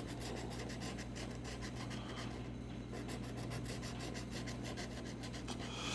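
A scratch-off lottery ticket being scratched: steady rapid scraping strokes rubbing off the latex coating.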